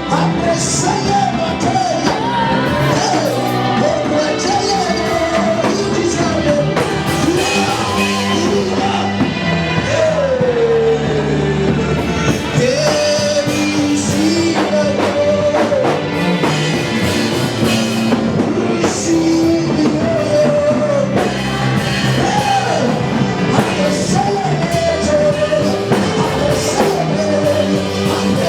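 Live gospel worship band playing with a lead vocalist singing a melody over drums, bass and keyboard chords.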